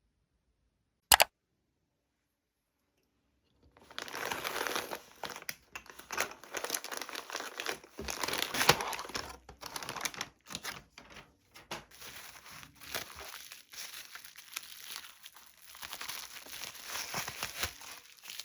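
A single sharp click about a second in, then packaging being crumpled and torn open by hand: dense, irregular crinkling and tearing of wrapping.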